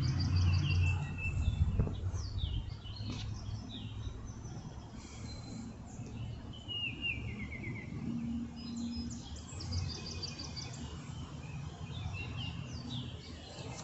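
A flock of small birds chirping and calling: many short high notes, with a quick falling run of notes about seven seconds in, over a low steady background rumble.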